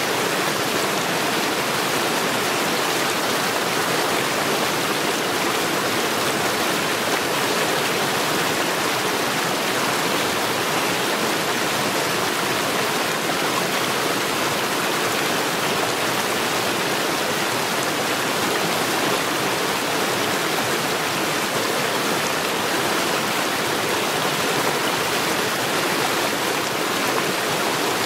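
Stream water rushing over stones, a steady even rush with no change.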